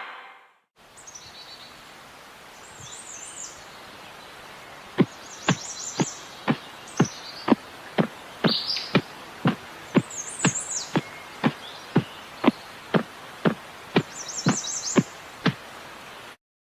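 Birds chirping in short high calls over a steady outdoor background hiss, with a sharp click repeating about twice a second from about five seconds in until shortly before the end.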